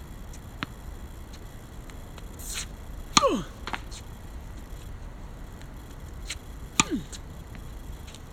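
Badminton racket striking a shuttlecock twice, about three and a half seconds apart, in serve practice. Each hit is a sharp crack followed by a short falling ring, and a racket swish comes just before the first.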